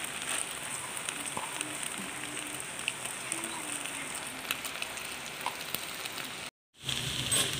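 Wok of noodles topped with pak choy and bean sprouts frying over the heat: a steady sizzling hiss with small crackles and pops. The sound cuts out for a moment about six and a half seconds in.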